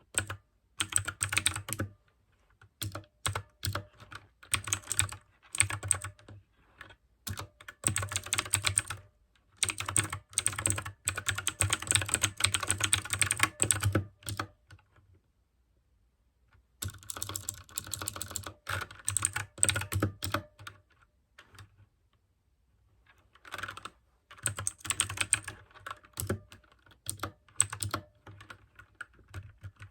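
Mechanical keyboard with blue switches being typed on in fast bursts of sharp clicks, with pauses of a couple of seconds between runs of typing, two of them near the middle.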